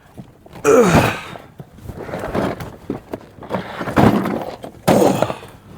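A series of knocks, clunks and scrapes from metal being handled on the truck: a loud clunk with a short scrape about a second in, lighter knocks after it, and another loud clunk near the end.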